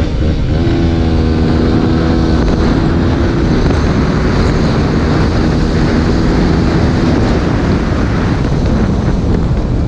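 Dirt bike engine running while riding, its pitch shifting a little, with wind rushing over the microphone.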